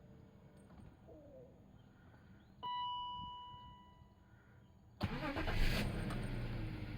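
A single electronic chime rings and fades about two and a half seconds in as the ignition is switched on, then about five seconds in a car engine cranks, catches and settles into a steady idle, starting on its newly replaced battery.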